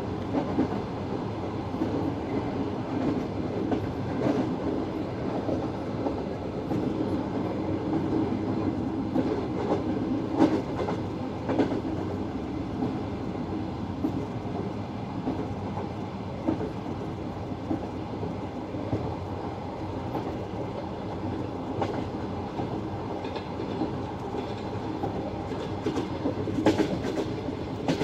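Passenger train carriages rolling at speed: a steady rumble of wheels on rails, heard through an open carriage window, with a few sharp clacks from the wheels over the track now and then.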